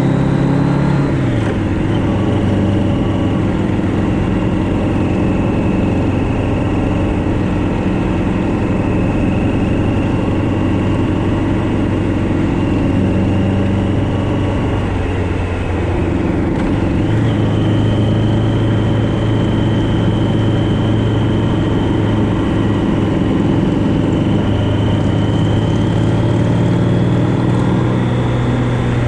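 Motorcycle engine running steadily under way. Its note drops about a second in, sags again a little past halfway, then picks back up.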